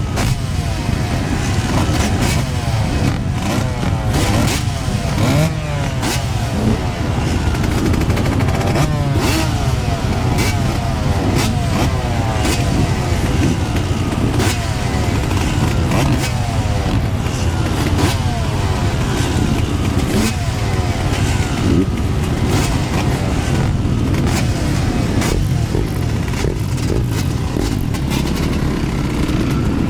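Yamaha YZ125 two-stroke dirt bike engine revving up and falling back over and over as it is ridden, with frequent sharp knocks and clatter from the bike.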